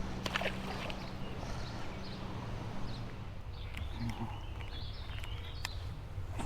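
Faint bird calls and a few sharp clicks over a low steady hum.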